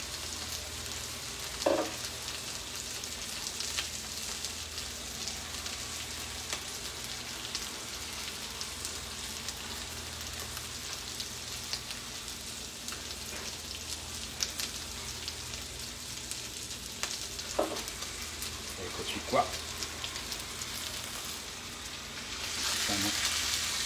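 Whole sardines sizzling in oil in a frying pan: a steady crackling hiss. Near the end the sizzle grows louder as the pan is lifted off the hob and moved.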